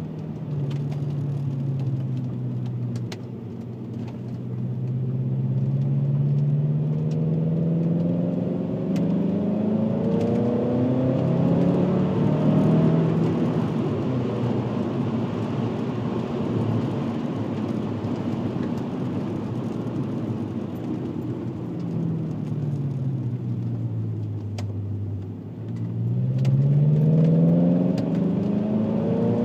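A VW Passat W8's 4.0-litre W8 engine running through a custom stainless exhaust with twin rear mufflers, with the engine already warmed up. The engine's pitch climbs steadily as the car accelerates, holds for a while, falls as it slows, then climbs sharply again near the end.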